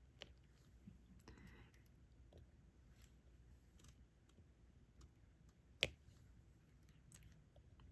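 Faint, scattered clicks and taps of a diamond painting pen setting small drills onto the sticky canvas, with one sharper click about six seconds in.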